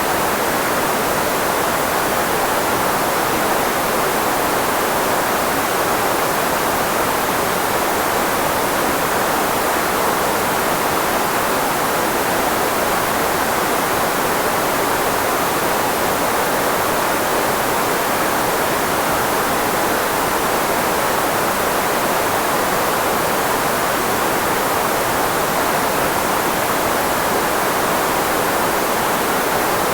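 Steady filtered white noise, a speech-masking hiss strongest in the midrange where the human voice sits, unchanging throughout.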